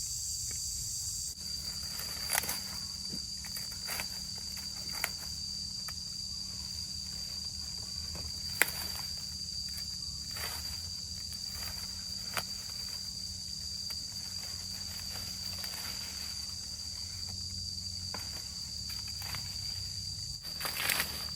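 Steady, high-pitched chorus of insects with scattered clicks and footstep-like knocks over it.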